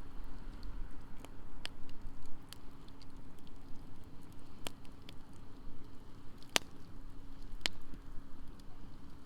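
Wood campfire burning, crackling with scattered sharp pops; the two loudest pops come about six and a half and seven and a half seconds in.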